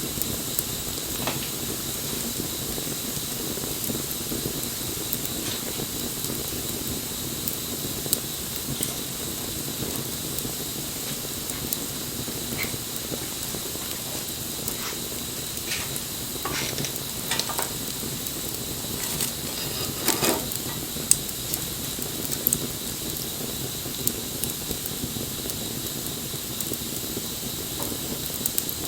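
Wood bonfire burning: a steady hiss with scattered crackles and pops, a few louder ones bunched past the middle.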